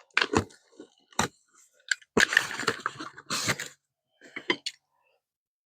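Irregular workshop clatter: knocks, clicks and short scrapes of parts and tools being handled, in quick clusters with short gaps.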